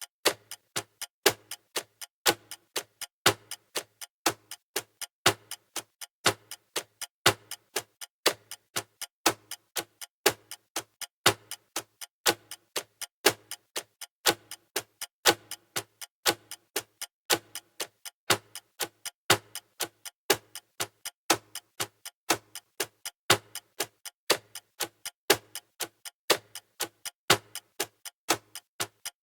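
Clock ticking sound of a countdown timer: a steady run of evenly spaced sharp ticks, stronger and weaker in turn.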